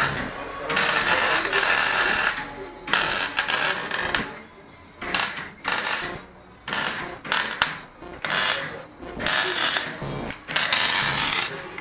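A workshop tool run in about ten short stop-start bursts of hissing mechanical noise, each lasting half a second to a second and a half.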